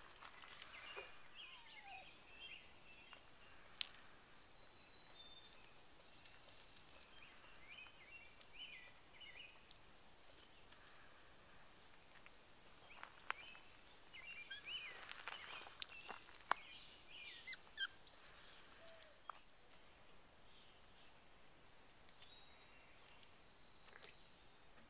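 Quiet outdoor ambience with small birds chirping faintly in scattered bursts, and a few sharp clicks.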